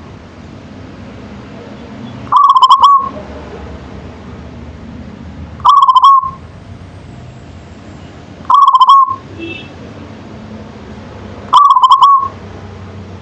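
Zebra dove (local perkutut) cooing in song: four short, trilled coo phrases, evenly spaced about three seconds apart.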